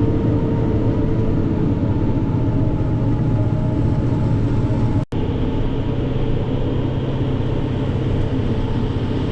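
Heavy engine running steadily under load, a low constant drone; the sound drops out for an instant about five seconds in.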